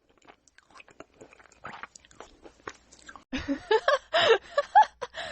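Crunchy food being bitten and chewed: scattered crisp crunches that grow denser and louder about three seconds in, with a few short pitched squeaks mixed in.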